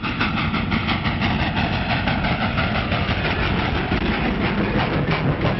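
A steady mechanical rumble with a rapid, regular clatter of about three or four knocks a second.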